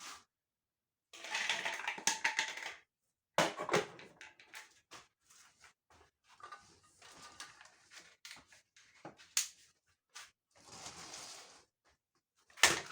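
Hands working on a dryer: bursts of rustling and scraping with scattered clicks and small knocks of parts, and one sharp knock near the end.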